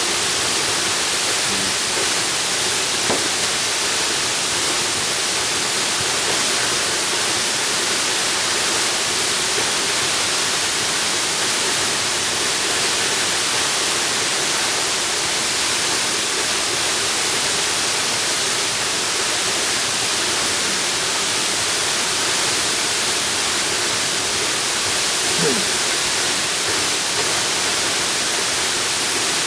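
Jungle waterfall: a steady, even rush of falling water, with no pauses or changes.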